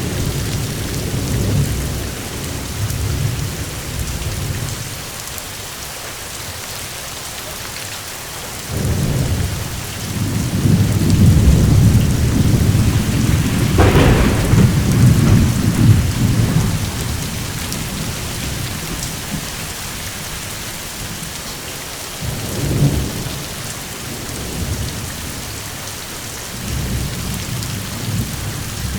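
Steady heavy rain with rolling thunder. The loudest peal builds from about a third of the way in, with a sharp crack at its height near the middle, and shorter rumbles follow near the end.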